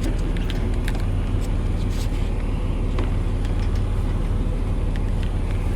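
A vehicle engine idling steadily with an even low drone, with scattered light clicks and taps over it.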